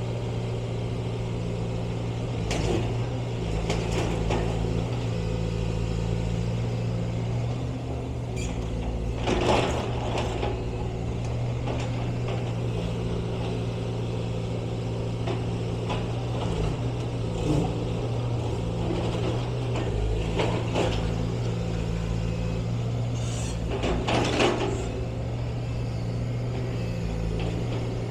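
A motor vehicle's engine running steadily with a constant low hum, with a few brief louder rushes of noise about three, ten and twenty-four seconds in.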